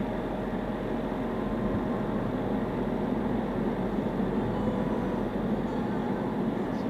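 Steady road and engine noise of a moving car, picked up by its dashboard drive recorder.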